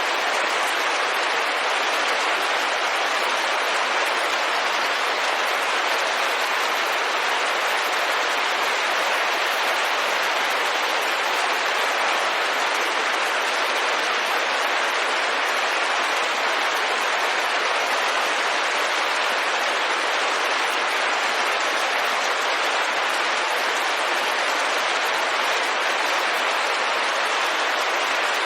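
Steady rain falling on a window, a dense even patter that neither swells nor breaks.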